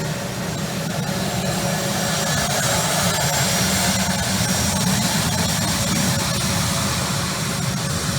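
The A-10 Thunderbolt II's twin turbofan jet engines running: a broad steady rush with a thin high whine. It grows a little louder toward the middle and eases slightly near the end.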